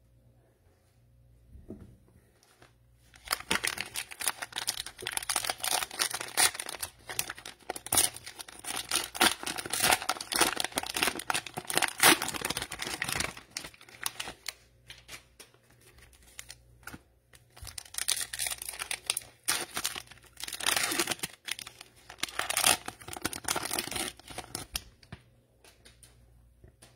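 Cellophane wrapper of a trading card cello pack being torn open and crinkled, in two long bouts of dense crackling with a short lull between them.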